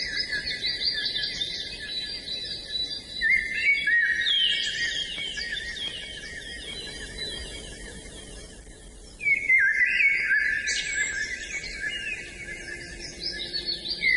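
A chorus of songbirds chirping and singing, many quick notes overlapping. The chorus thins out for a few seconds around the middle, then comes back louder about nine seconds in.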